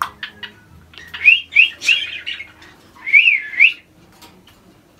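Parrot calling in two short bursts of rapidly wavering whistled notes, with a few sharp clicks between them.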